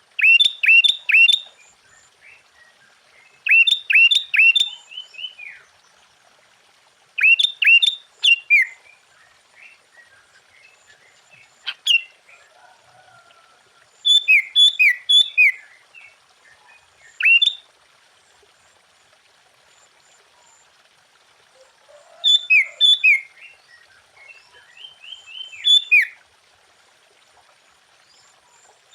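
Sooty-headed bulbul (kutilang) singing: short phrases of three or four quick, clear notes, each dropping sharply in pitch, repeated every few seconds, with a longer pause around the middle.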